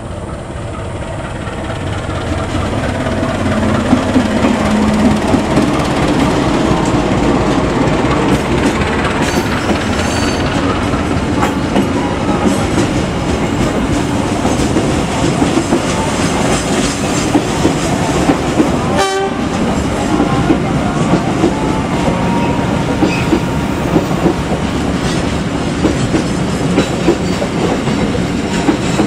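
Diesel-electric locomotive and its passenger coaches passing close by. The engine grows louder over the first few seconds, then the coach wheels clatter steadily over the rail joints, with a brief break about two-thirds of the way through.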